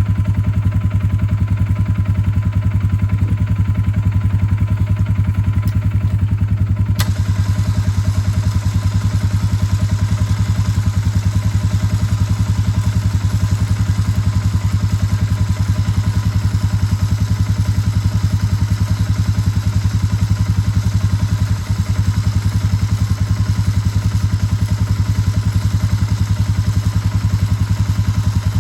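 An engine idling steadily, a loud, even, low drone with fast regular pulsing.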